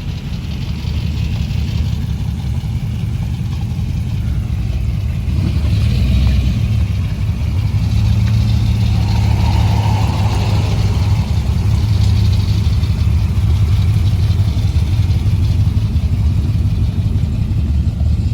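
A car engine running with a steady low rumble, growing louder about five seconds in and then holding steady.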